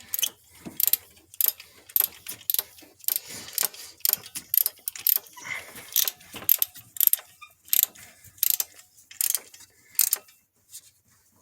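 Socket ratchet clicking in short strokes, roughly two a second with brief pauses, as a spark plug is worked in a cramped engine bay; the clicking stops about ten seconds in.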